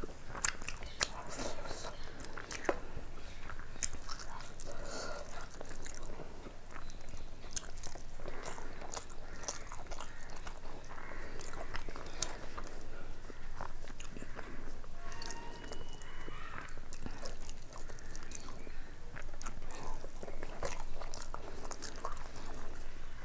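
Close-up chewing and mouth sounds of a person eating fried rice with chicken curry by hand, with many short wet clicks and smacks, and fingers gathering rice on a steel plate.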